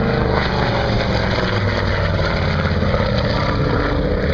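Piston-engined propeller aircraft running steadily, a low engine drone whose pitch falls slowly.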